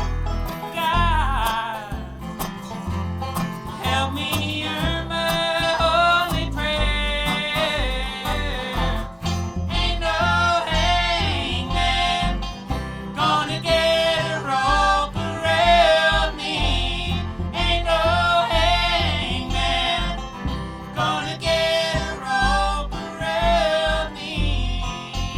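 Bluegrass band playing live, an instrumental break between verses: a bending lead melody line over acoustic guitar and a steady bass beat.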